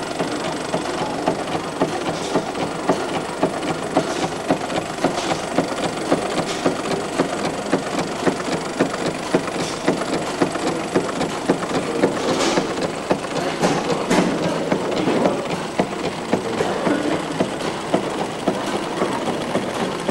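An old engine running steadily, with a regular knock about twice a second over a dense mechanical clatter.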